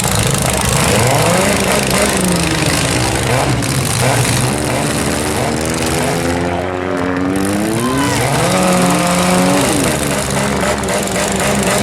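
Several compact cars' engines revving up and down together over a steady din of engine noise during a demolition derby heat.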